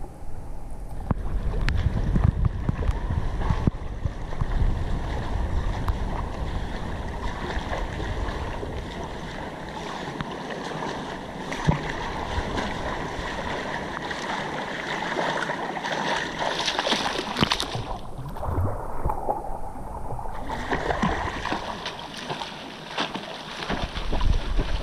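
Sea water splashing and sloshing around a swimmer's camera during a swim stroke, with wind rumbling on the microphone. The sound dulls for a couple of seconds about two-thirds of the way through.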